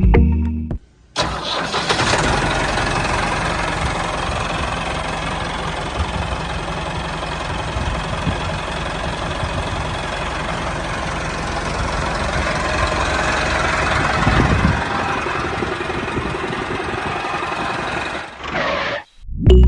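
A DIY mini tractor's small motor running steadily. It starts about a second in and cuts off suddenly near the end.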